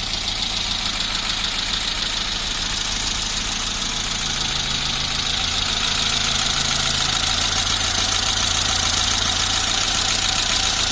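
VAZ-2101 four-cylinder petrol engine fitted in a Moskvich 412, running steadily at low speed, a little louder from about six seconds in.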